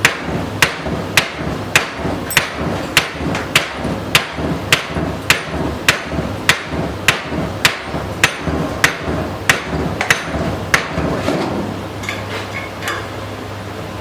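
Steady hammer blows, just under two a second, about eighteen in all, ending about eleven seconds in with a few lighter strikes. Likely driving a tight part out in a tractor workshop.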